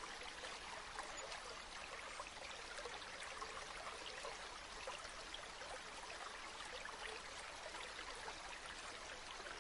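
Stream water flowing steadily, a continuous rush with many small splashes scattered through it.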